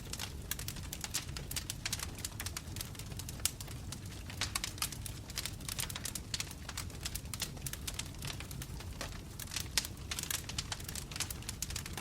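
Wood fire crackling: burning logs popping and snapping in quick irregular clicks over a low steady rumble of flames.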